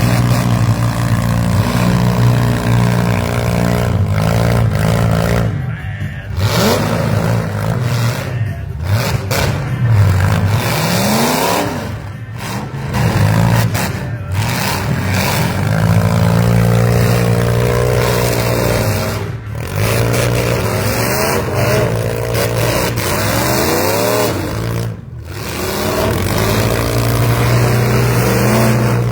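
Demolition derby vans, SUVs and mini trucks running hard, their engines revving up and down again and again, with some clatter and scraping of metal.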